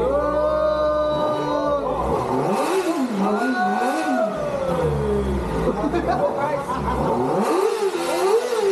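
Kawasaki Ninja ZX-4RR's 399 cc inline-four engine on its first start-up, revved with repeated throttle blips. The pitch climbs and drops back several times, with one longer fall to a lower note in the middle.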